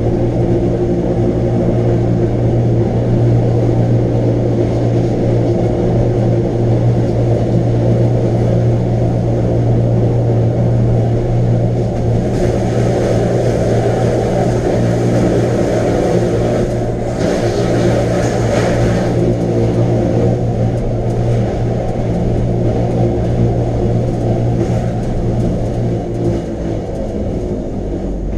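Wengernalpbahn rack-railway train running: a steady, loud hum from its electric drive. From about twelve to nineteen seconds in, a rushing hiss comes in over the hum.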